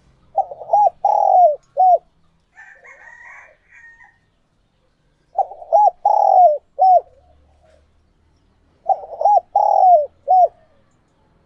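Spotted dove cooing: three phrases of about four coos each, repeated roughly every four seconds. A fainter, higher call sounds between the first two phrases.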